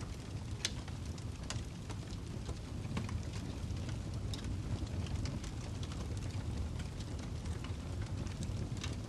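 Logs burning in a wood fireplace, crackling with irregular sharp pops over a low, steady rumble of the flames.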